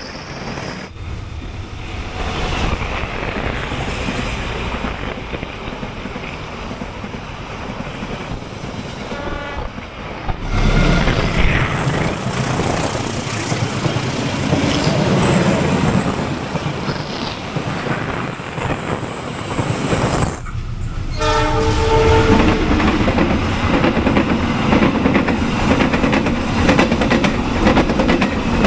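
Trains running past on the rails, in several clips joined together with cuts about ten and twenty seconds in; a locomotive horn sounds shortly before the first cut and again just after the second.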